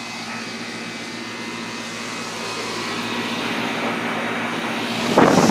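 Lennox central air conditioner condensing unit running: a steady hum with a fan drone that grows gradually louder. A loud rush of noise breaks in near the end.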